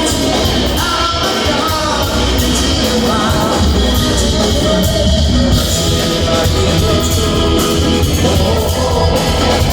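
Progressive rock band playing, with a sung vocal line over electric guitar, heavy bass and drums.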